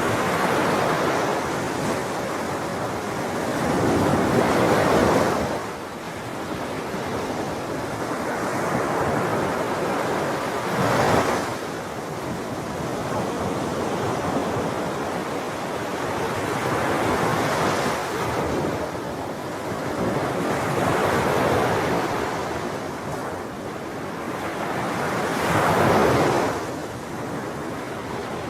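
Sea waves washing in: a continuous rush of surf that swells and ebbs, with a louder breaker every five seconds or so and the biggest ones about five seconds in and near the end.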